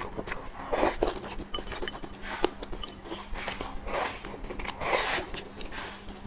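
Close-miked eating sounds: a person chewing and biting food, heard as a string of short, irregular mouth noises.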